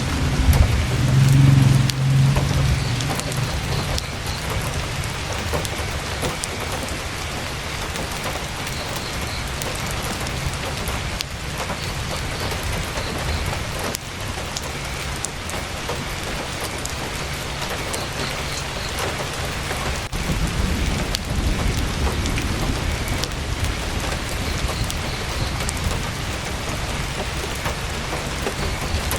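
Heavy rain falling steadily on a tent's fabric, a dense patter of drops. A low rumble swells near the start and again about two-thirds of the way through.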